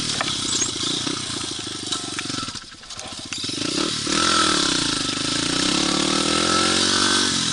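Pit bike's small four-stroke single-cylinder engine being ridden, revs rising and falling as the throttle is opened and closed; it drops off briefly about two and a half seconds in, then climbs again.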